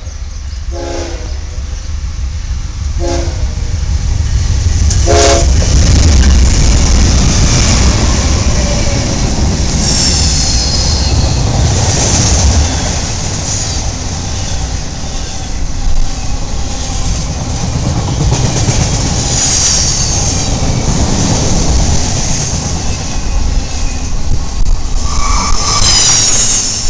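Freight train passing at a curve: the diesel locomotive gives short horn blasts as it approaches, then goes by with a heavy rumble, loudest about six seconds in. A long string of trailer-laden intermodal flatcars follows, rolling past with a steady rumble and bursts of high-pitched wheel squeal on the curve.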